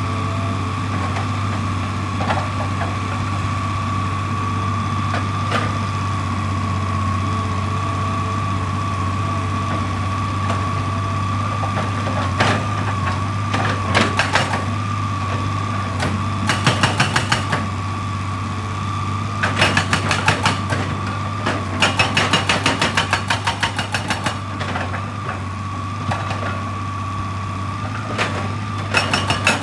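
Heavy construction machinery running steadily, with a constant low engine hum and a steady high whine. Several bursts of rapid, even hammering, each lasting a second or two, come in the second half.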